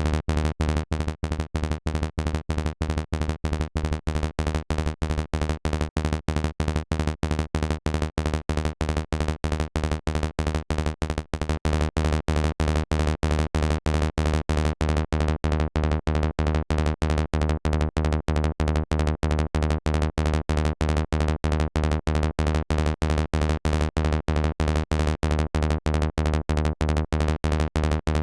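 Electronic kick-and-bass loop from the Kick 2 and Sylenth plugins: short, deep synth notes on one steady pitch, repeating evenly at about four a second.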